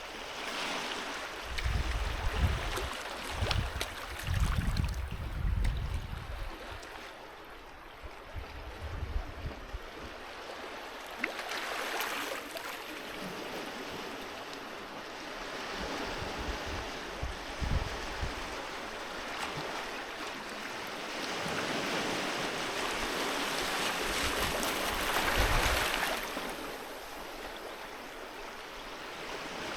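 Sea waves washing onto a beach, swelling and receding in slow surges, with the loudest wash about three-quarters of the way through. Low gusty rumbles in the first few seconds are wind on the microphone.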